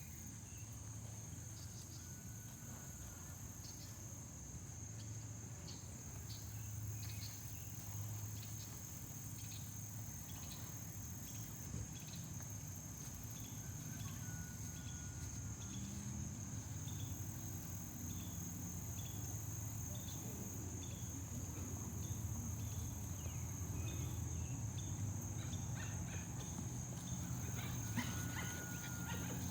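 Insects droning steadily at a high pitch, with faint short chirps repeating about once a second through the middle, over a low rumble.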